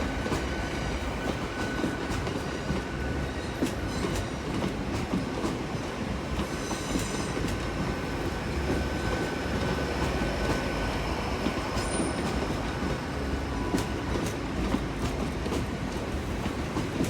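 Class 802 IET bi-mode train running on its underfloor diesel engines, a steady running noise with a faint whistle-like tone and scattered sharp clicks from the wheels on the rails.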